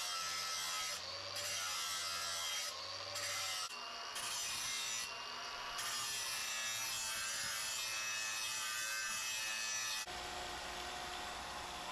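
Steel Damascus knife blade being ground against a running belt sander to put the edge bevel on, a continuous abrasive grinding that shifts abruptly a few times. About ten seconds in it changes to a lighter, steady hum.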